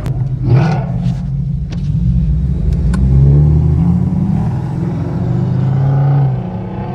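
Car engine and exhaust revving and accelerating, its deep note rising and falling in pitch, with a brief whoosh about half a second in.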